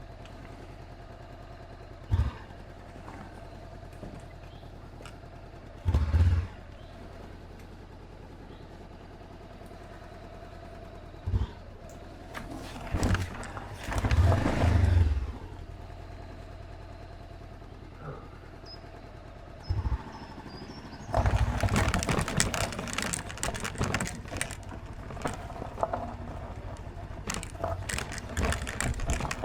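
Honda CB500X's parallel-twin engine running steadily, with several short gusts of wind buffeting the microphone and dense crackling from about two-thirds in.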